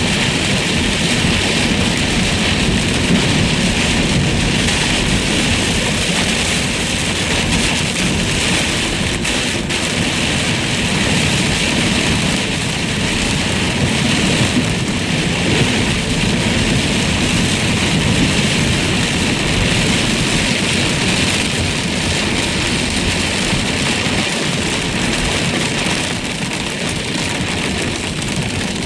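Heavy rain pelting a moving car in a severe thunderstorm, with the car's road noise underneath; a steady, loud rush.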